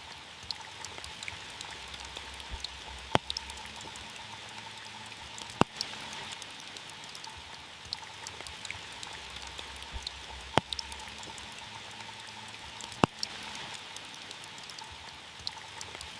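Steady rain falling on a car's roof, an even hiss dotted with small drop ticks, with four louder single drops striking sharply a few seconds apart.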